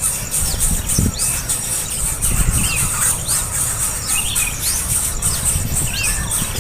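Baby birds' begging chirps: short, high calls, each falling in pitch, repeated about every half second to a second. Behind them run a steady high insect buzz and a low rumble.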